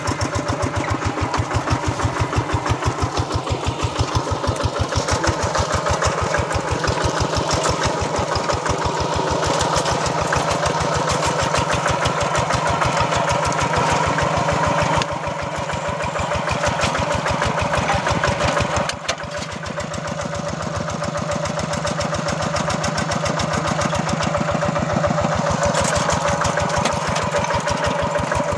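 Two-wheel paddy-field hand tractor's single-cylinder diesel engine running steadily with an even beat while plowing, with two brief dips in level about midway.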